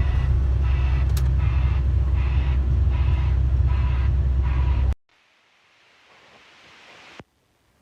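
Loud, steady low rumble of a heavy vehicle running, with a faint pulsing higher up and a sharp click about a second in; it cuts off suddenly about five seconds in, leaving only a faint hiss.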